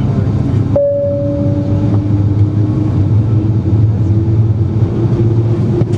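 Cabin noise inside an Airbus A330-300 on the ground before takeoff: a steady low rumble and hum from the running engines, with a faint whine slowly rising in pitch. A short steady tone sounds about a second in and lasts about a second.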